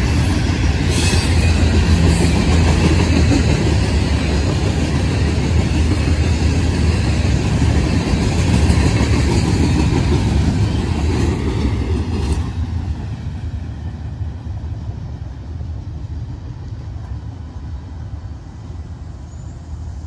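A train rolling past close by: a loud, steady rumble and rattle of wheels and cars. About twelve seconds in, the sound drops suddenly as the end of the train goes by, leaving a low rumble that fades away.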